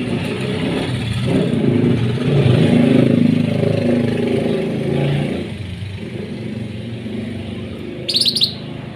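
A motor vehicle going past, loudest about two to five seconds in and then easing off. Near the end comes a short run of quick high bird chirps.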